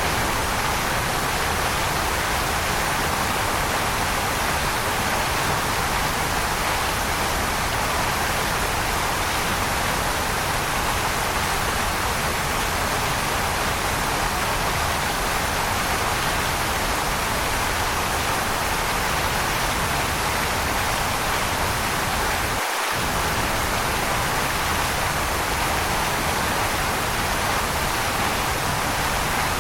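Waterfall: a steady, unbroken rush of falling water, a dense hiss with a low rumble beneath it. The rumble drops out for a moment about 23 seconds in.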